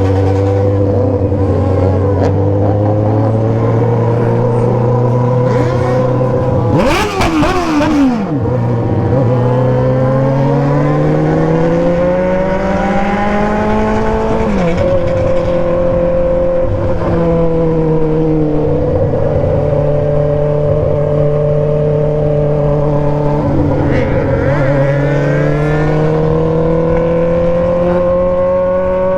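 Remapped motorcycle with a three-inch aftermarket exhaust running hard under way. The engine note climbs slowly and drops back at each gear change. About seven seconds in there is a brief rush with a falling pitch as another engine passes close by.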